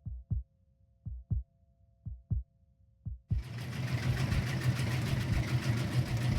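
Water hammer in household plumbing: the pipes give low, sharp double knocks about once a second. About three seconds in, the knocking gives way to a steady rushing noise with a low rumble.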